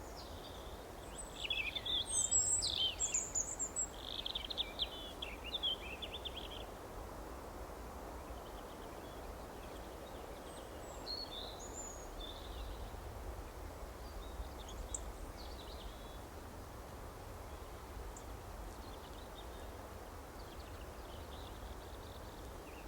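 Wild songbirds chirping over a steady background hiss of outdoor ambience: a burst of loud, quick high chirps and trills about a second in that lasts several seconds, then fainter scattered calls further off.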